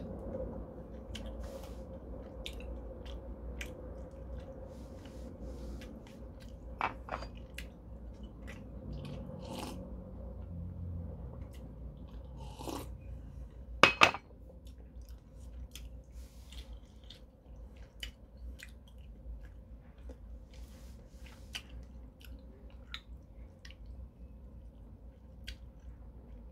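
A person chewing food, with many small wet mouth clicks over a faint steady hum. A single sharp click or knock about halfway through is the loudest sound.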